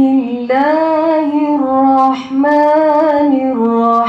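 A woman's voice reciting Quranic Arabic in a slow, melodic chant, holding long steady notes that step from one pitch to the next.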